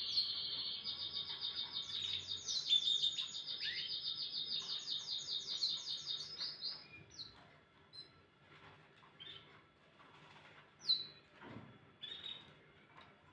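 Domestic canary singing: a fast run of rapidly repeated trilled notes that stops about seven seconds in, followed by a few scattered short chirps.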